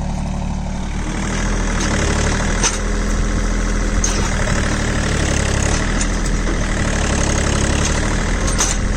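John Deere 3028EN mini tractor's 28 hp three-cylinder diesel engine running steadily, growing a little louder about a second in.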